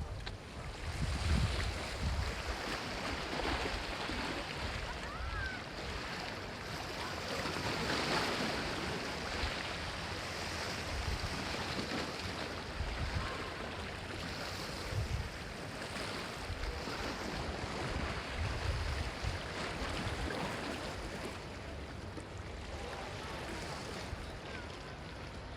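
Sea waves washing in steadily, with gusts of wind buffeting the microphone in low rumbles.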